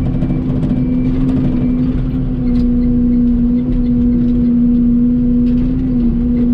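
Excavator's diesel engine running at a steady working speed, with a constant hum and faint scattered knocks.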